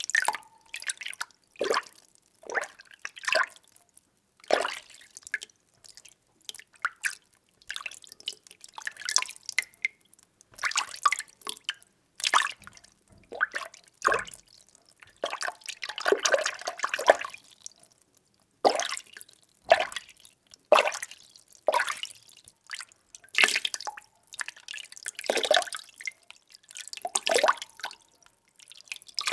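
Water being stirred: a string of short sloshes and splashes, roughly one a second, with a longer swirling slosh about halfway through.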